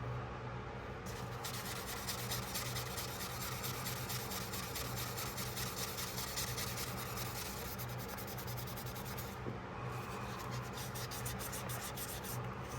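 Rapid back-and-forth hand abrading of the steel of a Case XX pocketknife with sandpaper and a wire brush: many quick scratchy strokes a second, pausing briefly about nine seconds in, over a steady low hum.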